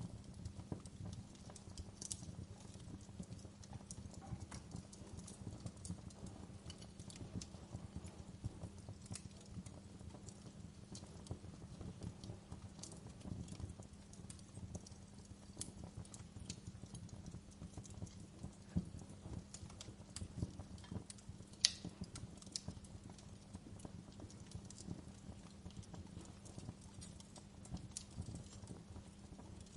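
Wood fire in a fireplace crackling: a low steady rumble under dense small ticks, with scattered sharp pops and one louder pop about three-quarters of the way through.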